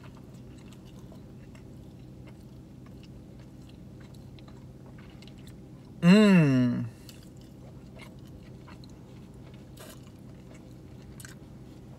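A man chewing a mouthful of cheeseburger, with faint small wet clicks. About six seconds in comes a loud 'mmm' of enjoyment that falls in pitch and lasts under a second, over a steady low hum.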